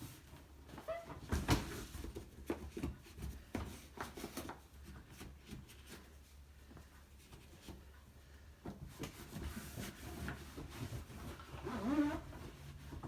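A rag wiping down a dishwasher's inside, with scattered knocks and rubbing; near the end, a short whine-like sound.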